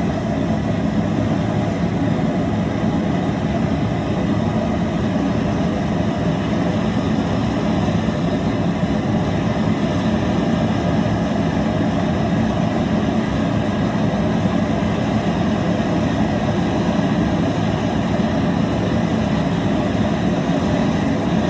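Gas burner under a crawfish boiling pot, running with a steady rushing noise as it heats the water.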